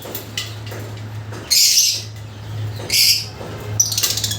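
Lovebirds calling: shrill chirps, the loudest about one and a half and three seconds in, and a quick rattling chatter near the end, over a steady low hum.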